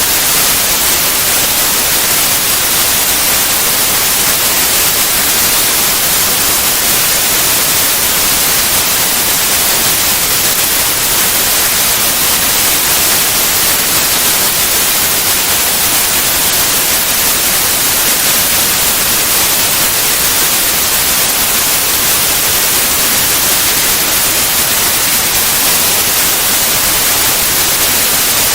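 Steady white noise: an even, constant hiss, brightest in the high end, with no change in level or character.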